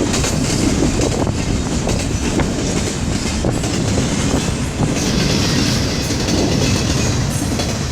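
Freight train cars rolling past at close range: a steady loud rumble with the clickety-clack of wheels over rail joints, with a little more high hiss from about five seconds in.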